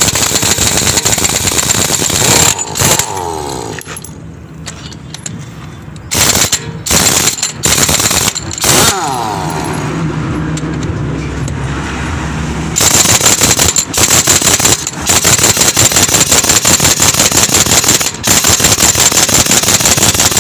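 Pneumatic impact wrench hammering on truck wheel nuts in rapid rattling bursts that start and stop several times, with a long run through the second half.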